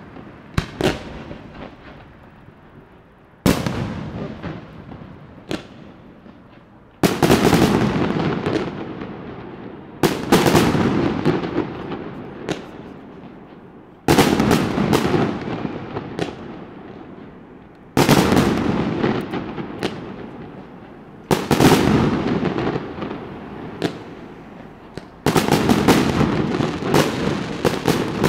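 Aerial firework shells bursting one after another, a loud bang about every three to four seconds, each followed by a long fading rumble and crackle, with smaller single cracks in between.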